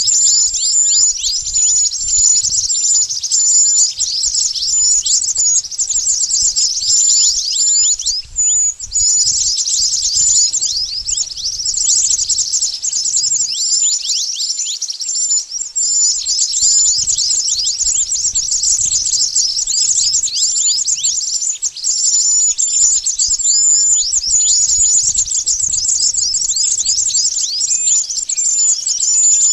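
Burung mantenan calls played as a bird-lure recording: a dense, rapid stream of high chirps, many of them quick falling notes, that thins briefly about a third of the way in and again around the middle.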